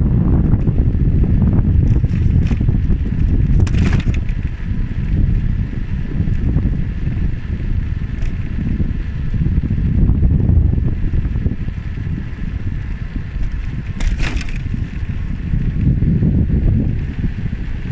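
Wind buffeting the microphone of a moving bike: a loud, uneven low rumble, with two brief sharp rattles, about four seconds in and again near fourteen seconds.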